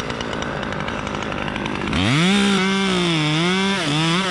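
Two-stroke chainsaw idling, then revved up sharply about two seconds in and held at high speed. Its pitch wavers and dips slightly under load before rising again near the end.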